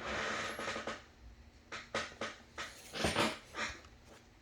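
Trading cards being handled and flipped through by hand: a soft breathy rush about a second long, then a few short slides and flicks of cards.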